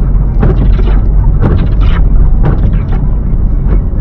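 Heavy low rumble of a car driving, heard from inside, with about five sharp thumps from the road or suspension.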